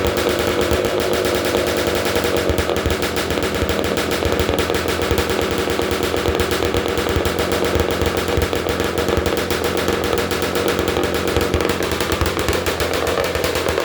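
Honda ATC 250R single-cylinder two-stroke engine running loud through an essentially straight-piped exhaust, a rapid crackling stream of exhaust pulses. The silencer's inner tube had broken off and is replaced by a crimped tube wedged in and wrapped with tape.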